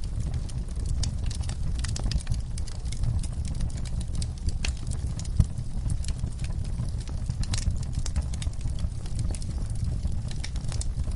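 Wood fire in a fireplace crackling, with frequent irregular sharp pops over a low steady rumble; one louder pop about five seconds in.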